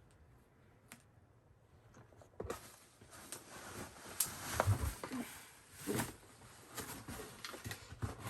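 Rustling and crinkling of packaging with small knocks and clicks as parts are handled and pulled out of a cardboard box, starting about two and a half seconds in after a short quiet spell.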